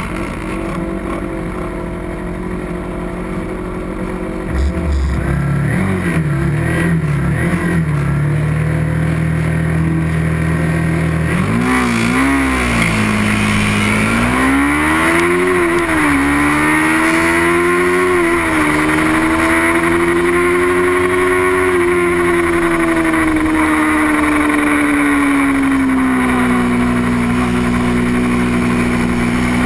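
Small-displacement race motorcycle engine running hard. It holds a steady note at first, then from about twelve seconds in rises and drops in pitch several times as it shifts gear, and settles into a long high steady note that sags slowly toward the end.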